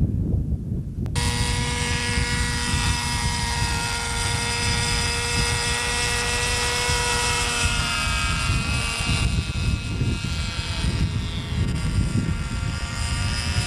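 Engine of a radio-controlled model aircraft running at a steady high pitch, cutting in abruptly about a second in, with wind rumbling on the microphone throughout. Near the end its pitch wavers and slides as the model moves.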